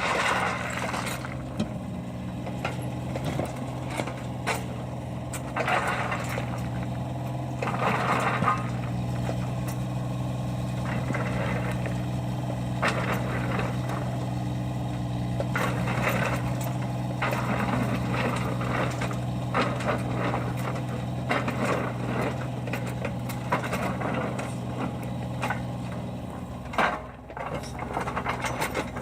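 Deere compact excavator's diesel engine running steadily, with repeated stretches of scraping noise and scattered knocks as it works.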